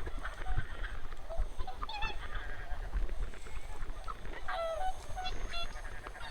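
A flock of wild geese honking, with scattered calls and a quick run of honks about two thirds of the way through, over a steady low rumble.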